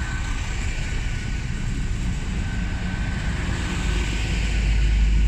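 Class 800 bi-mode train pulling out under diesel power. Its deep engine and wheel rumble grows louder from a few seconds in, over a faint steady whine that fades.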